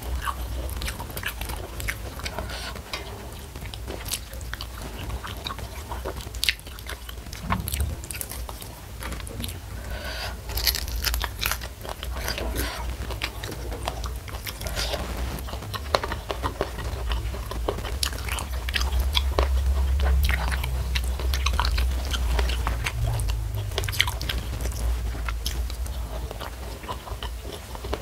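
Close-miked chewing of a hand-eaten meal of rice and fried salted fish, with crisp crunches and wet mouth clicks scattered irregularly throughout.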